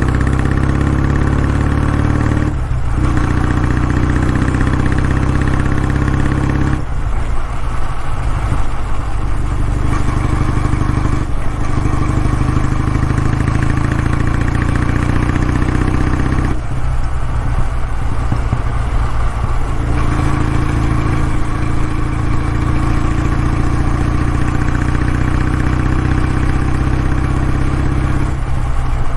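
Kawasaki W650's air-cooled parallel-twin engine running, a steady low exhaust note that breaks up briefly several times, about three seconds in, for a few seconds from about seven seconds in, and again past the middle, each time picking up again.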